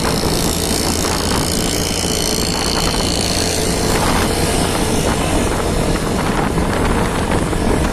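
Motorcycle being ridden: steady engine and road noise.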